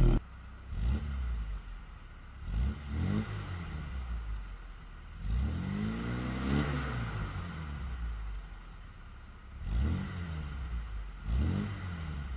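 MGB GT's four-cylinder engine revved up and let fall back again and again: several short throttle blips and one longer rise and fall in the middle.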